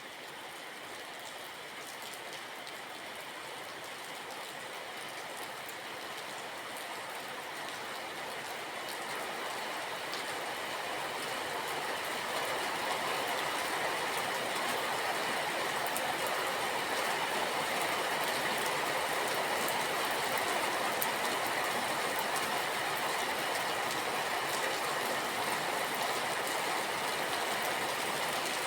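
Steady rain, an even hiss of falling water with scattered drop ticks, swelling over the first dozen seconds and then holding steady.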